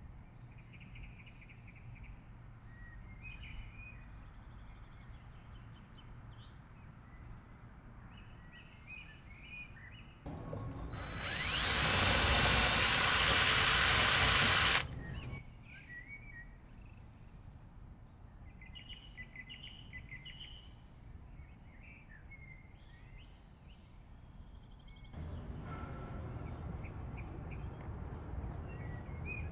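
Power drill running for about four seconds in the middle, drilling out a damaged screw, over birds chirping in the background. A quieter steady noise starts near the end.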